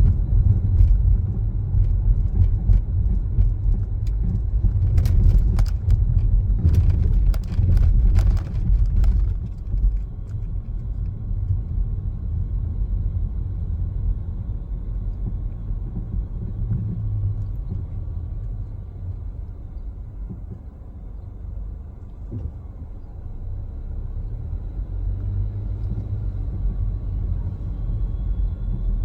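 Car driving along, with a steady low rumble of road and engine noise. A cluster of sharp clicks or rattles comes between about five and nine seconds in.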